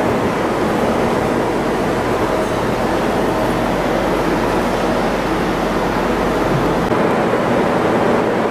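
Steady noise of a moving train, an even rumble with a faint low hum that drops away about seven seconds in.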